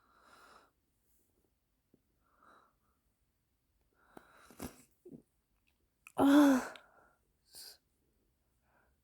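A woman with an upper respiratory infection and asthma breathing with a wheeze and sniffing, then one loud sneeze about six seconds in.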